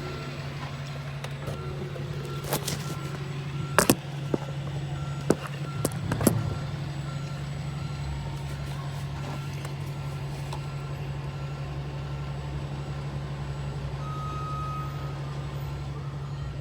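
A vehicle's reversing alarm beeping faintly, about two beeps a second, over a steady low engine hum. A few sharp clicks and knocks come between about two and a half and six and a half seconds in, likely from handling parts or containers.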